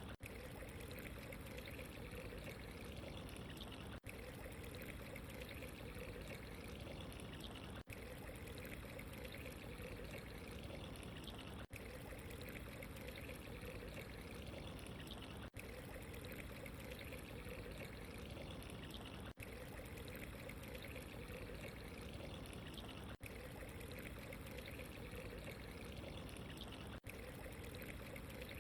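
Steady running water, a short recording looped with a brief dropout about every four seconds where the loop repeats.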